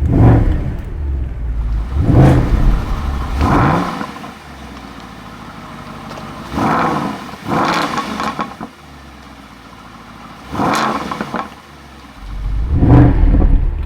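Mercedes-AMG SLS 63's 6.2-litre V8 revved repeatedly at a standstill in Sport Plus mode: about seven sharp throttle blips, each dropping back to idle, with pops and bangs from the exhaust as the revs fall.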